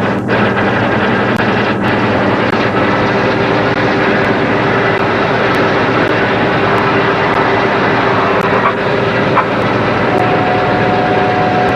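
Boat engine running steadily, with a constant rush of wind and water noise; a faint steady whine joins in near the end.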